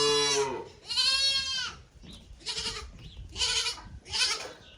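Young weaned calves bawling with high, bleat-like calls: a long call ending just after the start, another about a second in, then three shorter, rougher calls.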